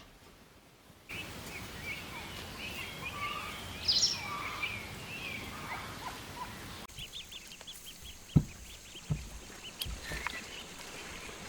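Rural outdoor ambience with small birds chirping and calling. The background changes abruptly about a second in and again past the middle, where a run of quick repeated chirps and a couple of dull thumps are heard.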